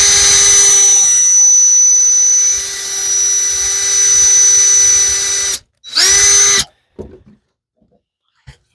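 Electric drill running steadily for about six seconds, boring a dowel hole in a wooden piece, then stopping, followed by a second short burst of under a second.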